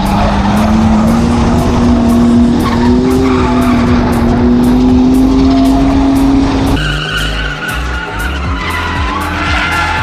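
Drift car engine held high in the revs with tyres skidding, its pitch creeping slowly upward; about two-thirds of the way through it changes abruptly to a different, lower engine note.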